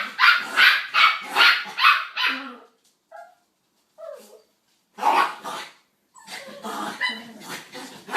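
Puppy barking repeatedly, about two barks a second, then a pause broken by a couple of faint short whines; it barks once more about halfway through and goes on with softer barks and yips near the end.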